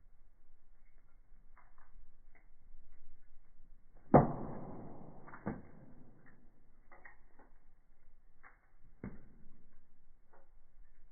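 Firewood burning in a fireplace, crackling with scattered small crackles. One loud pop about four seconds in trails off over about a second, and sharper pops follow a second later and about nine seconds in.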